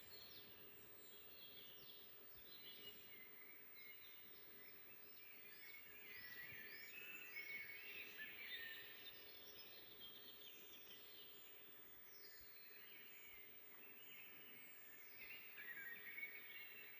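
Faint chorus of several songbirds singing and chirping, busiest about halfway through and again near the end, over a faint steady hum.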